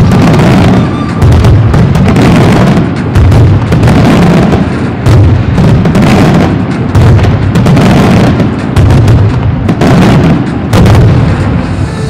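Aerial firework shells bursting in quick succession, a loud boom about once a second, each ringing out before the next.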